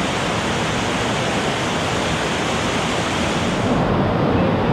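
Steady rushing of white water through a river rapid. About four seconds in, the sharpest part of the hiss drops away.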